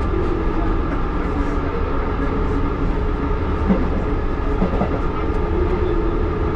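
1938 Tube Stock electric train running along the track, heard from inside the carriage: a steady rumble with a constant hum and a few faint clicks.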